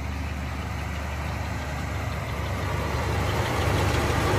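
1958 Plymouth Fury's fuel-injected Golden Commando 350 V8 idling steadily, its low drone growing louder toward the end.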